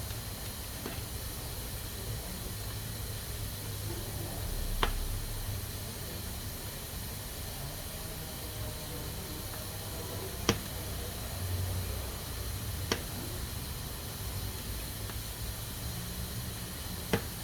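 Pressure cooker letting off steam through its valve with a steady hiss. Four sharp clicks stand out: about a third of the way in, twice in the second half, and once near the end.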